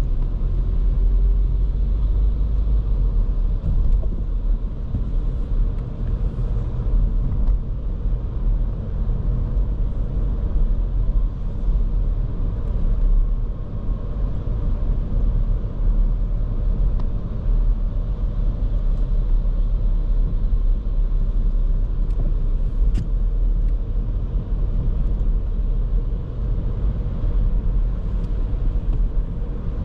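Driving noise of a 2023 Škoda Kamiq 1.0 TSI, its three-cylinder turbo petrol engine and tyres making a steady low rumble, with one brief sharp tick about 23 seconds in.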